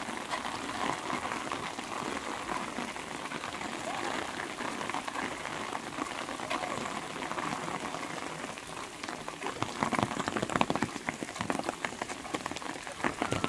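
Steady rain falling, an even hiss of many drops. From about two-thirds of the way in, sharper taps and drips come in and it grows louder.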